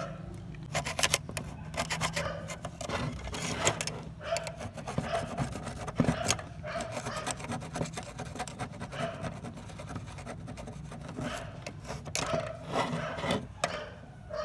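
Irregular hand rubbing and scraping, like filing or sanding, with sharp clicks and light knocks scattered through it. A steady low hum lies underneath for about the first half.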